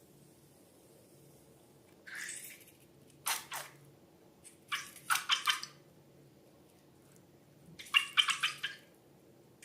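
Slime being squeezed, with wet, crackly squelching pops that come in four short bursts.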